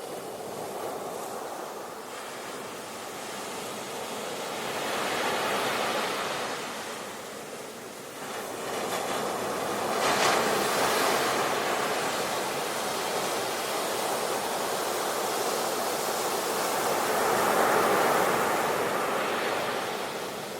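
Sea waves breaking and washing on the shore in slow surges, with three swells over the stretch. The one about halfway starts most sharply and is among the loudest.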